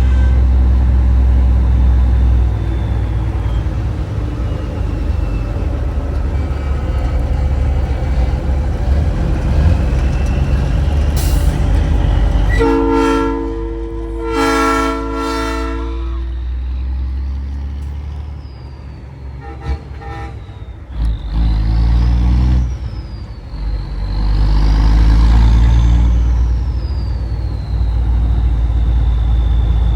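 Heavy truck diesel engine running, heard from inside the cab, with two long blasts of a Nathan Airchime P3 train horn sounding its three-chime chord about halfway through. A few shorter toots of the horn follow soon after.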